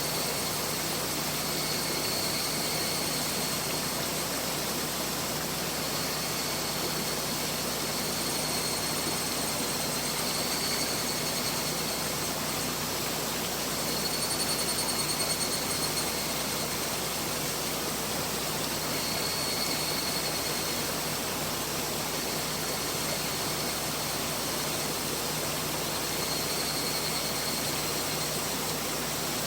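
Mountain river flowing: a steady rushing of water. A faint high-pitched tone fades in and out every few seconds over it.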